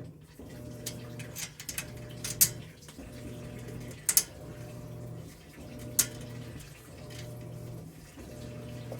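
Sharp clicks and knocks of shelf parts and hardware being handled during assembly, the loudest about two and a half seconds in, over a low hum that cuts in and out every second or so.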